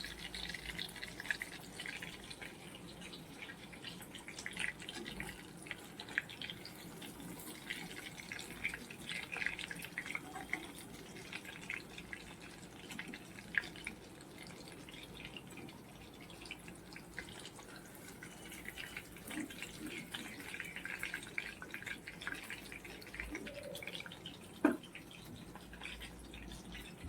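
Fish frying in hot oil in a pan: a faint, steady crackle of many small spattering pops. One sharp knock near the end.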